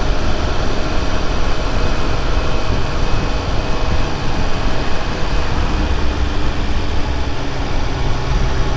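Triumph Speed Triple 1200 RR's three-cylinder engine running steadily at road speed, nearly buried under steady wind rush on the microphone.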